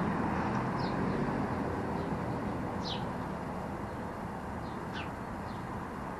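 A bird giving short, high, downward-sweeping chirps, four in all, spaced a second or two apart, over steady background noise.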